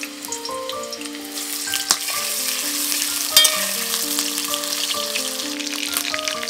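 Potato chunks sizzling steadily as they fry in hot oil in a metal kadai, with stirring and two sharp knocks against the pan, about two and three and a half seconds in.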